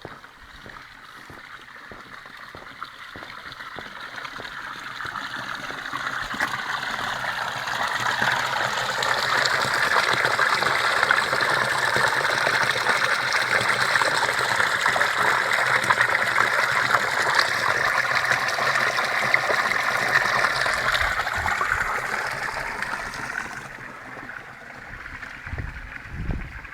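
Rushing stream water, growing louder over the first ten seconds, holding steady, then fading away after about twenty seconds. A few low bumps near the end.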